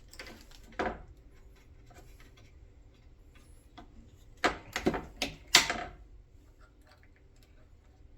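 Console floor shifter being moved through its gate, giving a couple of clunks near the start, then a quick run of four or five louder clicks and clunks about halfway through as the lever is worked between positions.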